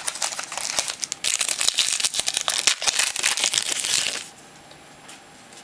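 Foil trading-card pack wrapper crinkling and crackling as it is handled and torn open, for about four seconds before it stops.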